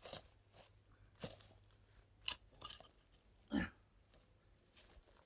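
Irregular crunching and scraping of a heavy metal object dragged over stones, with one heavier knock about three and a half seconds in.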